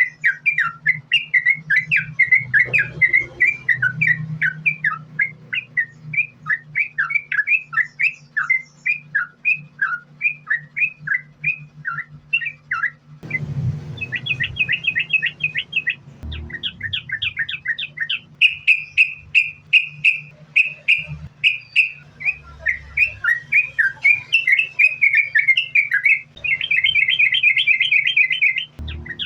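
Yellow-vented bulbul (trucukan) singing an unbroken run of rapid chirping phrases, with fast trilled runs about halfway through and again near the end. A faint steady low hum lies underneath.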